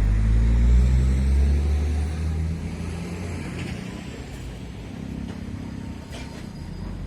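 A motor vehicle passing close by: a low engine rumble that swells in the first second or two, drops in pitch and fades by about two and a half seconds in, leaving steady street noise.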